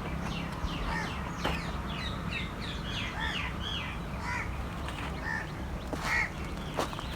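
Birds calling: many short, sharp calls overlapping in a busy chorus for the first few seconds, then a few scattered calls, over a low steady hum.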